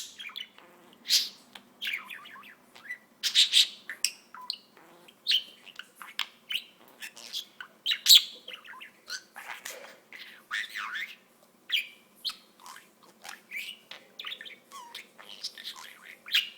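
Pet budgerigar chattering and warbling: a continuous run of short, high chirps and squawks.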